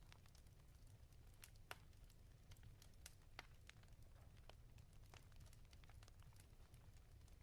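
Wood fire crackling quietly in a fireplace: irregular sharp pops and snaps over a low steady rumble, with one louder pop a little under two seconds in.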